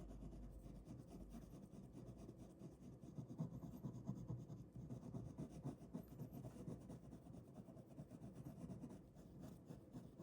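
Ballpoint pen drawing on paper: soft, continuous scratching strokes in quick, uneven succession, busiest in the middle.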